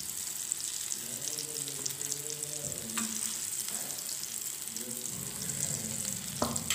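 Kababs sizzling and crackling in hot ghee in a frying pan, with a couple of light clicks of a metal spatula against the pan as they are lifted out.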